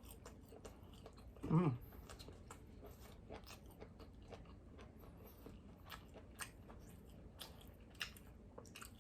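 A person chewing Hungarian sausage close to the microphone, heard as many short mouth clicks, with a brief hummed 'mm' about one and a half seconds in.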